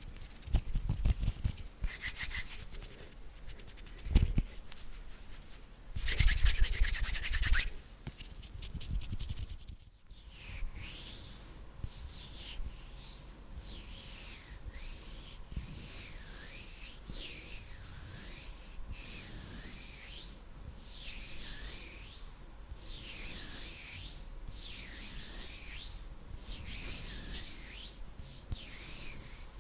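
Hands rubbing together close to a sensitive microphone. In the first eight seconds come a few loud bursts of rubbing; after a brief break, a slow series of soft swishing strokes follows, about one every second or so.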